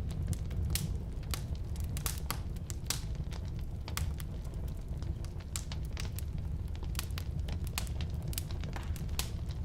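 Burning firewood crackling and popping: irregular sharp cracks, several a second, over a steady low rumble of the flames.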